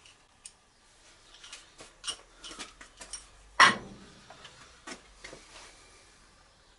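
Small metal parts being handled on a workbench: a scatter of light clicks and taps, with one louder, ringing clank about halfway through.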